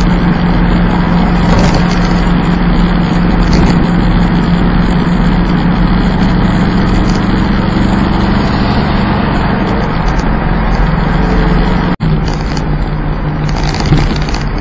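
Plymouth Volaré driving at a steady speed: a continuous engine drone over road noise. The sound drops out for an instant about twelve seconds in, after which the engine note is a little lower.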